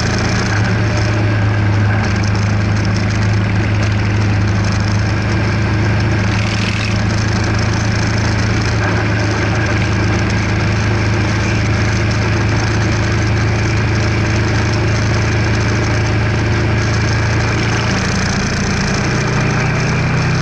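Kawasaki EN500 Vulcan's parallel-twin engine running steadily at cruising speed, heard from the moving motorcycle along with wind and road noise. Near the end the engine note rises.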